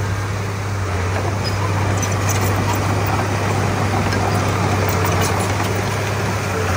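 Diesel engine of a Komatsu D31P bulldozer running steadily, a constant low drone with no change in engine speed.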